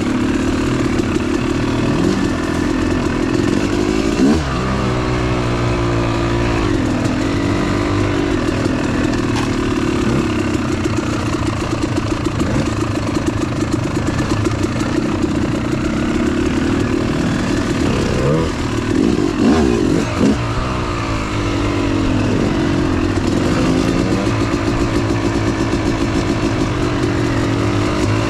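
Dirt bike engine running while being ridden off-road, its revs rising and falling with the throttle and gear changes. There are sharper revs a few seconds in and again about two-thirds of the way through.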